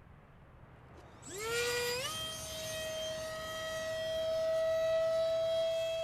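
The 50mm electric ducted fan of a mini F-86 Sabre RC jet spooling up about a second in. It rises quickly to a steady, high, siren-like whine and holds it at throttle.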